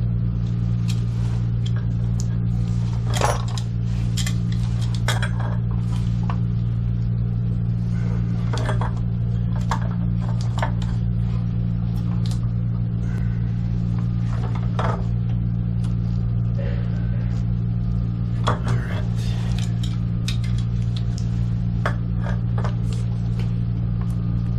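A steady low machine hum runs throughout, with scattered sharp clicks and clinks of tools and pipe fittings being handled.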